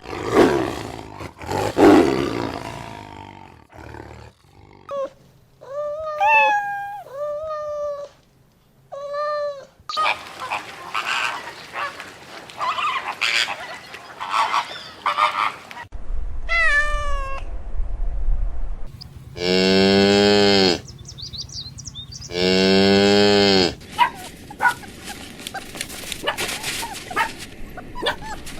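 A string of different farm animal calls, one after another: several short pitched cries early on, a stretch of noisy calling, then two long low cow moos of about a second and a half each, about two-thirds of the way through.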